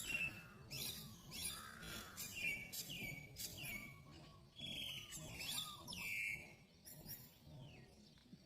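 Bird chirping: a steady run of short, high calls, about one to two a second, many of them sliding down in pitch.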